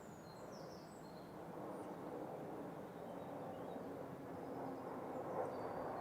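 A few faint, high chirps from small birds in the first second or two and again faintly near the end, over a steady background rumble that grows slightly louder.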